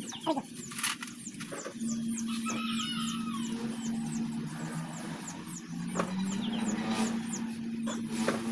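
A vehicle engine running with a steady hum. The hum drops out for about the first two seconds, then sags lower in pitch around the middle before climbing back. High, short squeaky chirps and a few sharp knocks sound over it.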